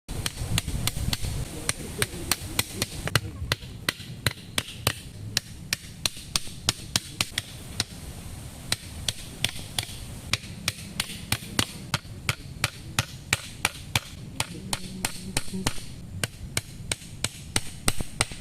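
Rapid, regular chopping strikes, about three a second, a blade cutting into wood, over a low steady rumble.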